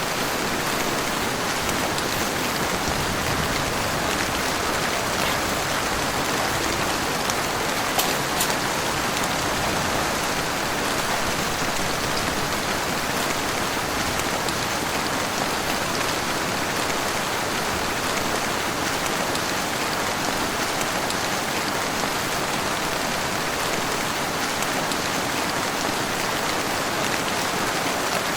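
Heavy rain falling steadily, an even unbroken hiss, with one sharp click about eight seconds in.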